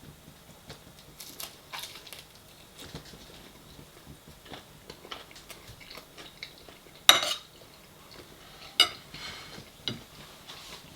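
Cutlery clinking and scraping against a plate while food is served, with light clicks throughout and a few sharper clinks, the loudest about seven seconds in.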